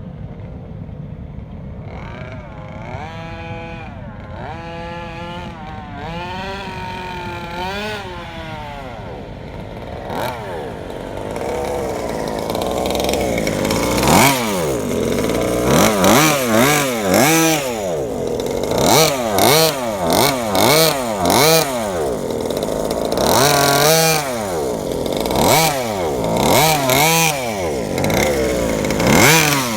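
New 32cc Rovan two-stroke engine with a tuned pipe on a 1/5-scale Baja 5B RC buggy, revving up and down again and again as the throttle is blipped during break-in. The revs come sharper and louder from about halfway, roughly one every second or two.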